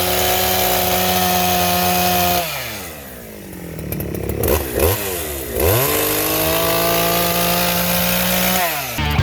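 Big, heavily modified two-stroke gas chainsaw (bored, stroked, ported, running on aviation fuel) held at high revs. About 2.5 s in the revs fall away, blip up and down a few times, and climb back to a steady high pitch. They drop again near the end.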